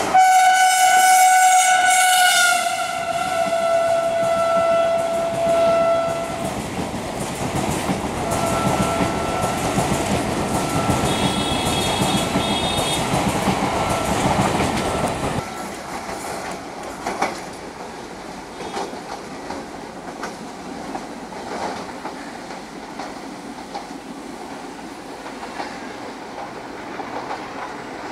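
Electric local train (EMU) passing close by, sounding a long horn blast whose pitch drops as it goes past, then sounding its horn again on a higher note over the rumble of its running. About halfway through, the sound changes abruptly to quieter, more distant train noise with scattered clicks.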